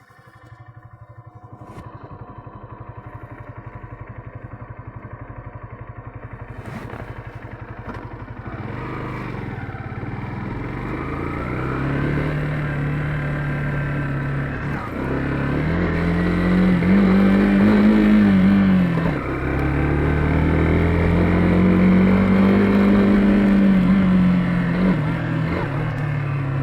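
Yamaha FZ15's single-cylinder four-stroke engine idling with an even pulse for several seconds, then pulling away and revving up. The pitch rises in long sweeps through the gears, dropping back briefly at two upshifts about halfway through and two-thirds through.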